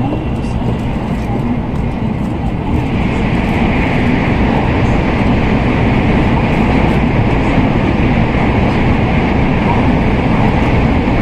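Steady running noise of an N700A Tokaido Shinkansen heard from inside a passenger car: a dense rumble with a hiss, growing a little louder about three seconds in.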